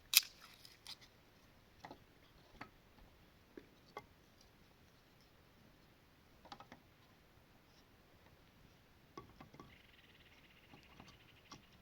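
Scattered light clicks and knocks of handwork in a small room, the sharpest just after the start, with a short faint rasping near the end.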